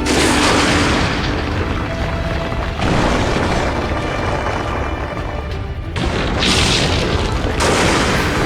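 Booming blast and impact sound effects come over dramatic soundtrack music: a loud surge at the start, then others about three, six and seven and a half seconds in.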